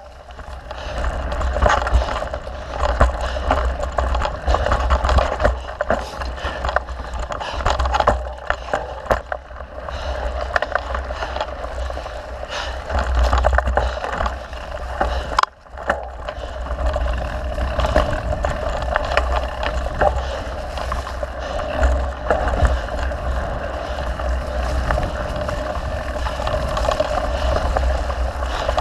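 Mountain bike being ridden on a dirt trail: steady tyre noise with many small rattles and clicks from the bike over rough ground, and wind rumbling on the camera microphone.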